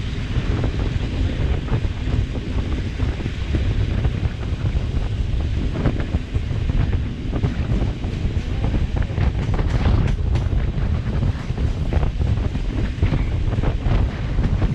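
Wind buffeting the microphone over the heavy rumble of a moving passenger train, with irregular knocks and clatter from the wheels and coach.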